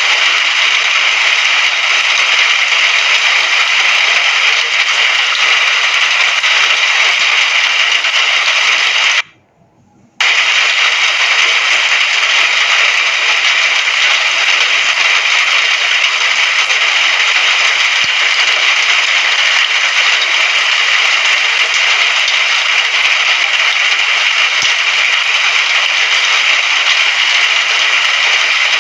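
Steady hiss of heavy rainfall, loud and even, that cuts out abruptly for about a second around nine seconds in and then resumes.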